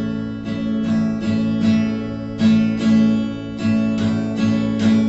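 Acoustic guitar strummed in the campfire rhythm (down, down-up, up-down-up) on the same chord throughout, at a steady, fairly quick pace of about two to three strums a second.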